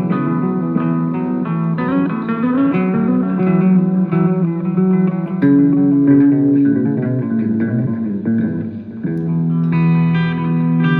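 Guitar playing a melody of single picked notes and held tones, with a long held note about halfway through.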